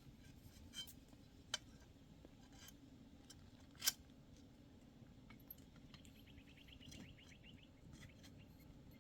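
Quiet background with scattered faint clicks, one sharper click about four seconds in, and a short run of rapid, even ticking about two-thirds of the way through.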